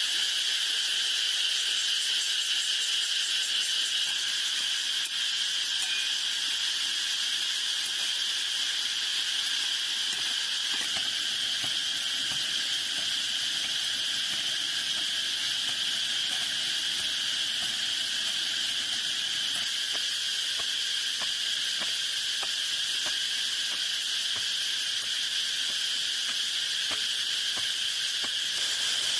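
A steady, unbroken chorus of insects chirring in a constant high band, with faint light clicks in the second half.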